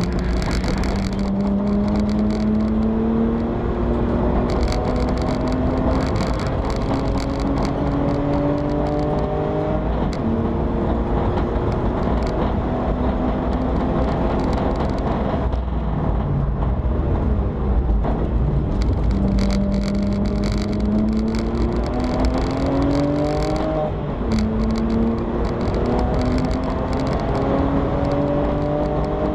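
BMW E90 325i race car's inline-six engine heard from inside the caged cabin, pulling hard with a note that climbs over a few seconds and drops sharply at each upshift. About a third of the way in, the note eases off and stays lower and uneven for several seconds, then climbs through the gears again near the end.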